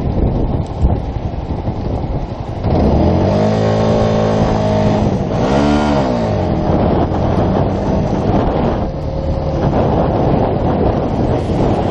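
Wind buffeting the microphone, then about three seconds in the Yamaha YZF-R125's 125 cc single-cylinder engine comes in under load, climbing in pitch. Near the middle it revs up and drops back once, then runs steadily under the wind noise.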